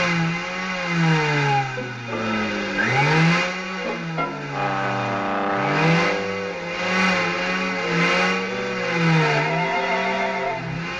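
An engine revving up and falling back, again and again: each rev rises quickly and then sinks slowly, about every two to three seconds.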